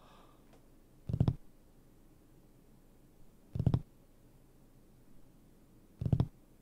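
Three short, low buzzing pulses, about two and a half seconds apart, from a horror film's soundtrack.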